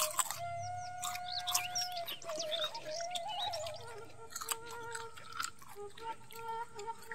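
Crunchy chewing of raw cucumber, with crisp bites, under a faint melody of steady tones and chirping birds.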